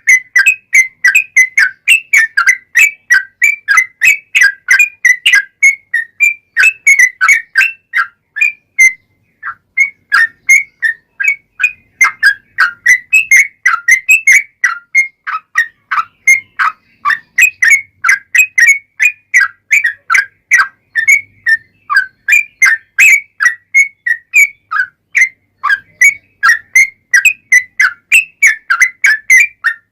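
Yellow-vented bulbul (trucukan) singing a long, nearly unbroken run of short whistled notes, about two to three a second, with a brief pause about nine seconds in.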